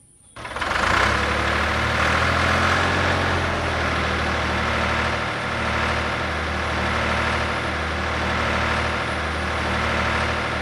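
A tractor-type engine running steadily with a low, even hum, starting abruptly about half a second in.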